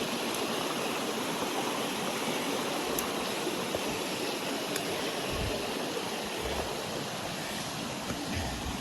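Creek water rushing steadily over rocks, with a few soft low thumps in the second half.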